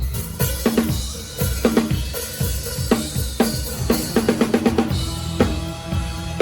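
Drum kit played live: kick drum, snare and cymbals keeping a steady beat, with a fast run of strokes about four seconds in.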